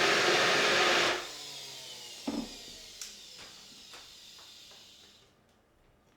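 A loud electric appliance motor running with a steady rushing noise, switched off about a second in and spinning down with a falling whine, with a few knocks and clicks as it winds down.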